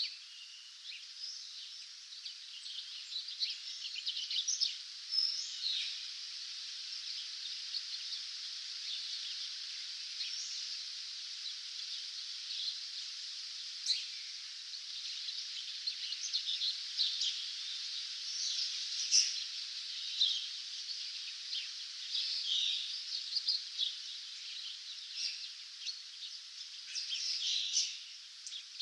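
Dawn chorus of many songbirds, with dense overlapping chirps and trills forming a continuous high-pitched chatter, a few louder calls standing out.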